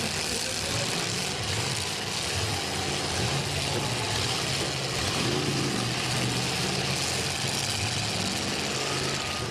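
Eight-cylinder demolition-derby car engines running steadily under a constant noisy din.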